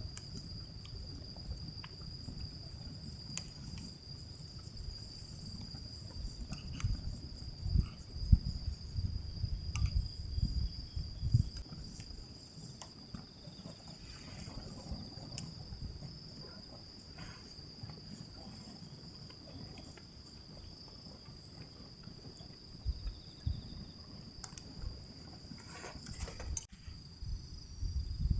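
Crickets chirping in a steady, unbroken high trill, over an uneven low rumble.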